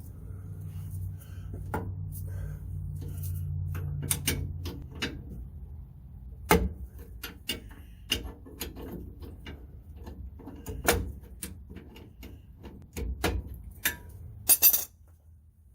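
Hand tools knocking and clicking against a pickup's rear brake caliper and its bolts as the caliper is worked loose: irregular short metallic knocks, with a sharp clatter near the end. A low hum runs under the first few seconds.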